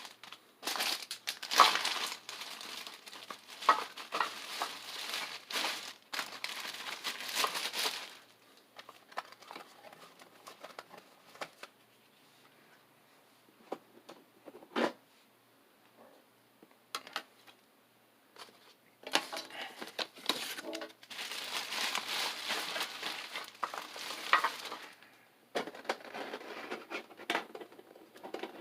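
Foil wrapper of a Pokémon booster pack crinkling as it is handled and opened, in two long spells with a quieter stretch and a single sharp click between them.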